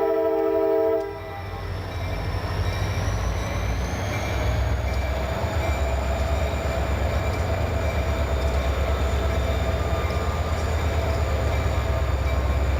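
A diesel freight locomotive's air horn sounds a chord that cuts off about a second in. The locomotive's engine then rumbles loudly as the train passes close by, with a faint high whine slowly rising.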